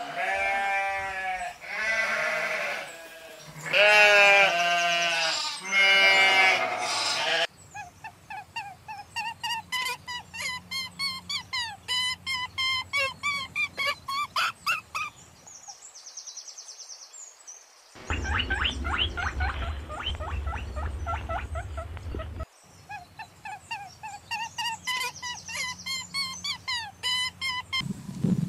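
Animal calls cut together one after another: loud, drawn-out bleating for the first seven seconds or so, then long runs of short, high calls at about three a second, broken near the middle by a brief different, noisier stretch.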